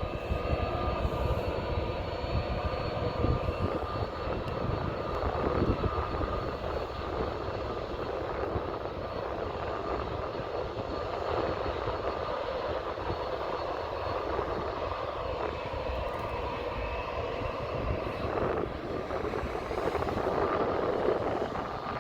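Jet airliner's engines at takeoff power, a steady noise with a thin high whine on top.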